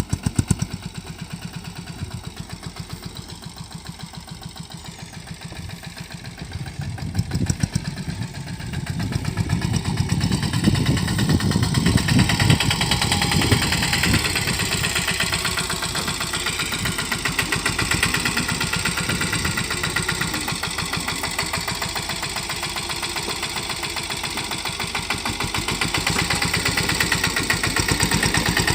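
Sanedo mini tractor's engine running steadily with a fast, even pulse while sowing, getting louder about eight seconds in and staying louder.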